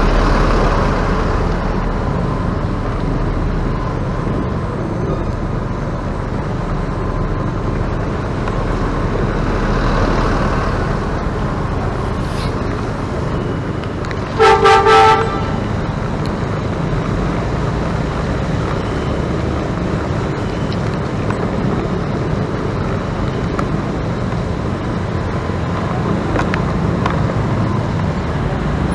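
Steady road noise from traffic, with a vehicle horn sounding three quick short toots about halfway through.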